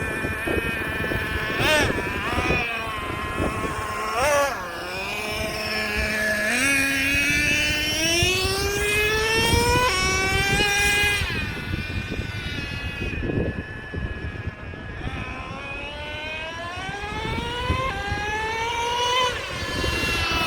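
Traxxas Revo 3.3's two-stroke nitro engine on speed runs: two quick throttle blips in the first few seconds, then a long rising whine as the truck accelerates for several seconds, a drop in pitch, and another long rise near the end.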